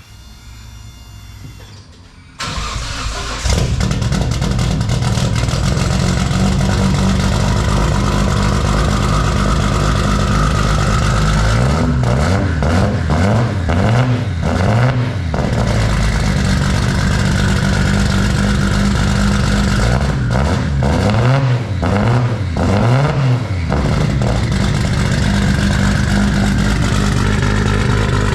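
Nissan Skyline R32 GTR's RB26 straight-six, single big turbo, on a 3.5-inch titanium straight-pipe exhaust, cranking for about two seconds and then firing up on its first start. It runs loud and lumpy at idle and is revved up and down several times in two spells, partway through and again later.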